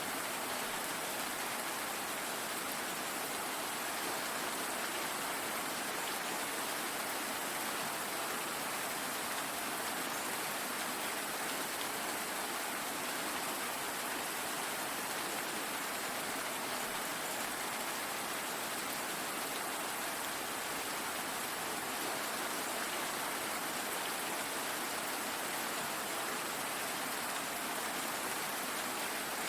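Steady rain falling and pattering on a surface, an even hiss with no thunder or other events.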